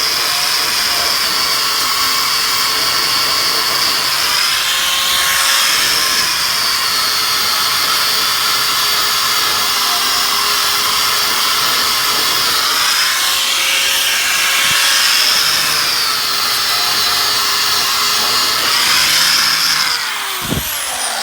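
Angle grinder with a wire wheel brushing rust off a steel truck frame. Its whine is steady, dipping in pitch a few times as the wheel is pressed into the metal, then falls away as the grinder is switched off and spins down near the end.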